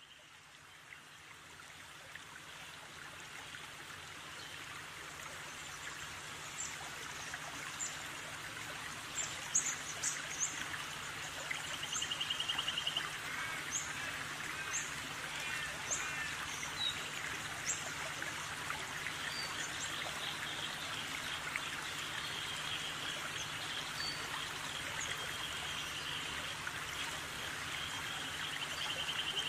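Lovebirds chirping, with short high chirps scattered through the first half and a buzzy trill twice, over a steady hiss and a faint low hum.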